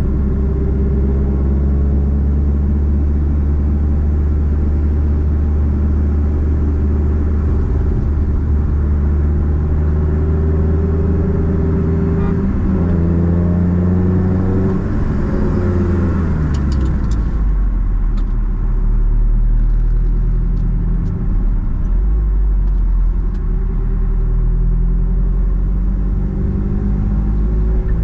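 Nissan Platina's four-cylinder engine through a straight-piped exhaust while driving, a steady drone. The revs climb about halfway through, drop sharply at a gear change, then hold steady and begin to climb again near the end.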